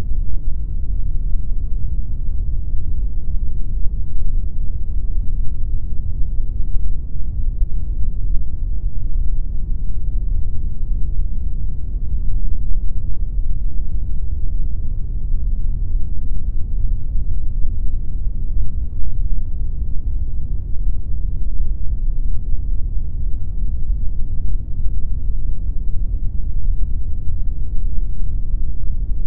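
Steady synthetic pink noise: a constant, unchanging deep hiss with most of its weight in the lows and little above about 2 kHz.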